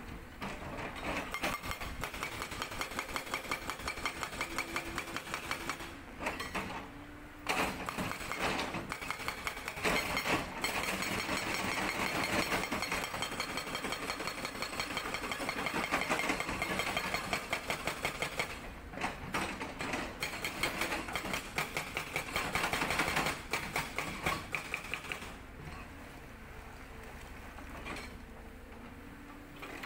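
Sangdo SD220 hydraulic breaker on a Cat 320D excavator hammering rock in rapid, evenly spaced blows. It runs in long bursts, stopping briefly about six seconds in and again past halfway, then pausing near the end, where the excavator's diesel engine is heard running on its own.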